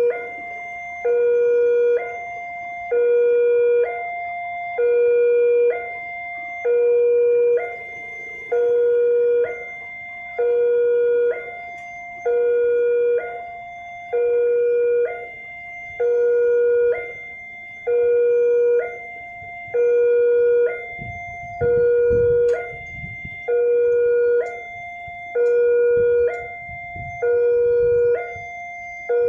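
Railway level-crossing warning alarm sounding while the barrier is down, a long tone followed by a shorter one at another pitch, repeating about every two seconds. A low rumble joins in about two-thirds of the way through.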